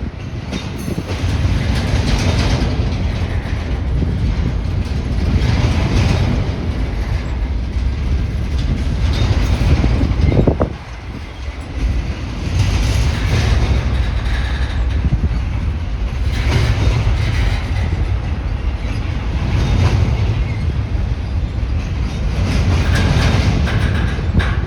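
Freight train rolling past close by: a steady, loud rumble of wheels on the rails that surges every few seconds as each car passes, with a brief lull about ten seconds in.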